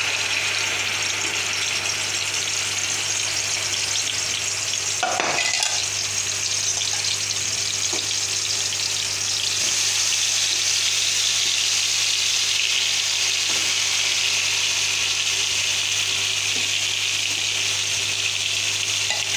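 Marinated chicken pieces sizzling in hot ghee, a steady frying hiss, with a brief knock about five seconds in.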